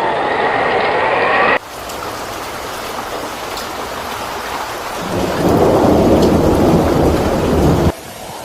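Storm noise of heavy rain and wind. A loud low rumble comes in about five seconds in and stops abruptly near the end. A few wavering tones sound at the very start before the sound changes abruptly.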